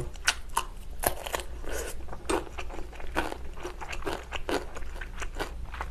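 Close-up chewing of a mouthful of food, with irregular crisp crunches and mouth clicks a few times a second.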